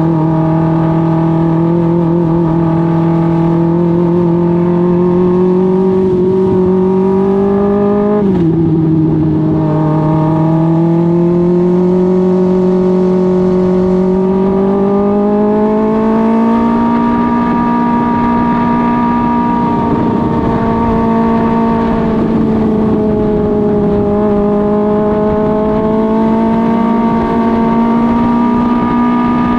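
Dwarf car's Suzuki GSX-R1000 inline-four motorcycle engine running at high revs under racing load. Its pitch climbs slowly, drops sharply about eight seconds in, then climbs again and holds fairly steady with small dips.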